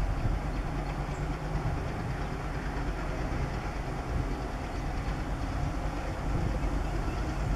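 Diesel-hauled train running on the track, a steady rumble of engine and wheels that does not let up.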